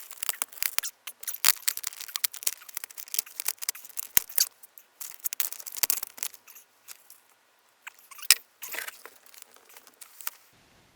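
Insulation and its plastic sheeting being pulled back and shifted by hand: a dense run of crinkling and tearing crackles that thins to a few scattered rustles in the last few seconds.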